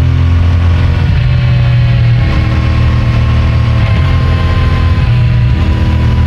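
CFMOTO 450MT's parallel-twin engine and exhaust running at steady road revs. The note breaks briefly a few times, about a second in and again around four and five seconds in.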